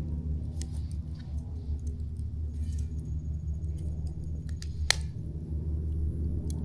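Wood fire crackling, with scattered sharp pops and one louder snap about five seconds in, over a steady low rumble.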